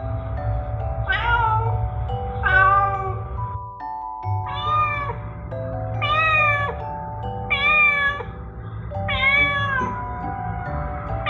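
Domestic cat meowing repeatedly, about six meows roughly one every one and a half seconds, each rising then falling in pitch. Background music with sustained bell-like notes plays underneath.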